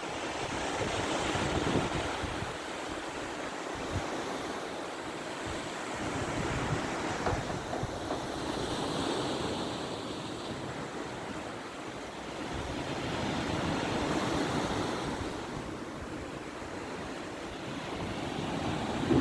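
Black Sea surf breaking on the shore, a steady wash that swells and fades every few seconds as the waves come in. Wind buffets the microphone, adding low rumbles.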